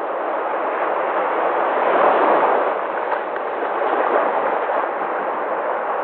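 Sea waves breaking, a continuous rush of surf that swells about two seconds in and again near four seconds.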